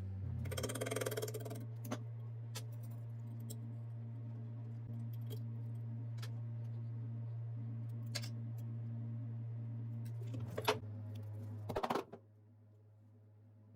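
Small metal parts clicking and clinking against one another over a steady low hum, with a brief rattle near the start. The hum stops about twelve seconds in.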